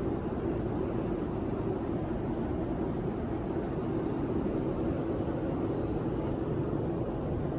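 Steady cabin noise of a Boeing 787-9 airliner: an even, low rumble of engines and airflow.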